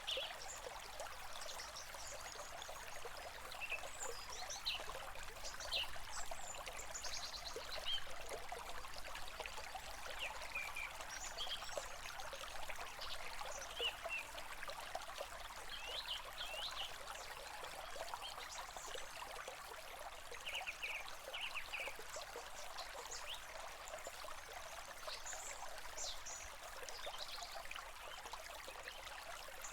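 A stream running steadily, with birds chirping in short notes scattered throughout.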